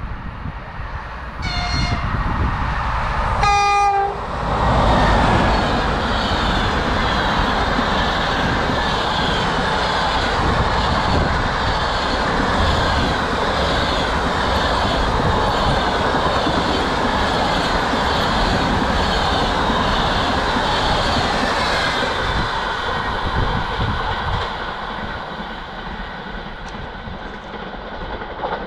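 A train sounds its horn twice, a short blast and then a longer one, then passes close by with loud wheel and running noise and a rhythmic clatter. The noise fades in the last few seconds as the train moves away.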